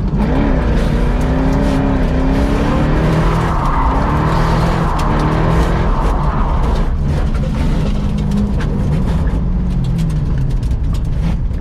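A car engine revving up and down over a broad hiss of tires skidding, as a car drifts on track.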